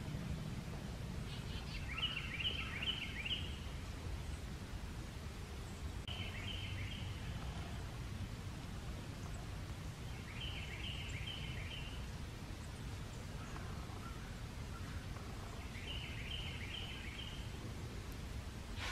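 A songbird singing the same short phrase of four or five quick repeated notes, four times, one phrase about every four to five seconds, over a low steady rumble.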